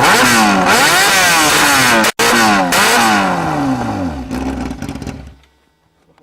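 Yamaha R6 inline-four motorcycle engine run with no exhaust fitted, very loud, revved up and down in several quick throttle blips. After about three seconds the revs fall away and the engine dies down to near silence near the end.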